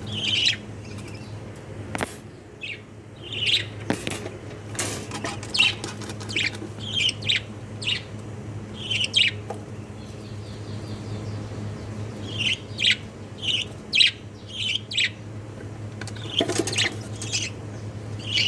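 Budgerigars chirping in short, scattered high calls that come in clusters, with a steady low hum underneath and a few sharp clicks.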